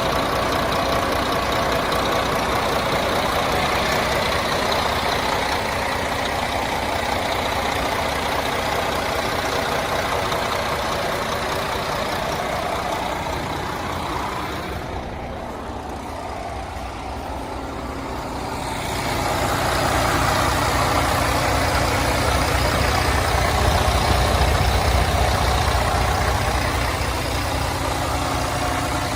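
International ProStar truck's MaxxForce diesel engine idling steadily. The sound dips for a few seconds about halfway through, then comes back louder and deeper.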